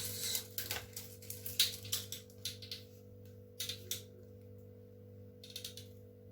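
Irregular light clicks and taps of kitchen utensils and a bowl being handled, thickest in the first three seconds, over a faint steady hum.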